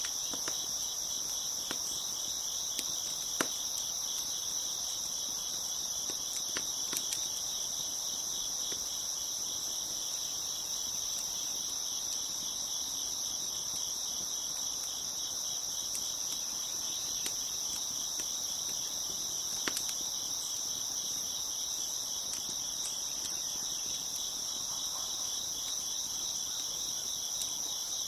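Crickets chirping in a dense, steady chorus, with a few sharp pops and clicks from a crackling wood fire scattered through it.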